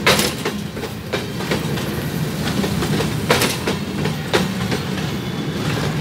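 NCA freight train of covered hopper wagons rolling past close by. Its wheels rumble steadily on the rails, with a few sharp clacks at irregular moments as wheels cross rail joints, the strongest about three seconds in.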